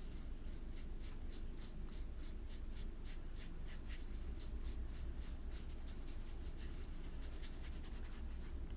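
A watercolour brush stroking and dabbing across paper: a quick, irregular run of soft scratchy strokes, several a second, over a low steady hum.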